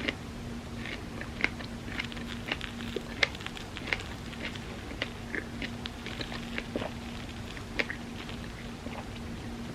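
Close-miked chewing and wet mouth clicks from eating soft crepe cake, a few small smacks every second at an irregular pace, over a faint steady hum.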